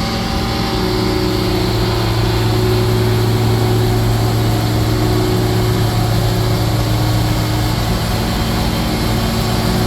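Cummins diesel engine of a Freightliner M2 truck running steadily at idle, a constant low hum with a noisy haze over it, while the truck's asphalt patch equipment is switched on and heating up.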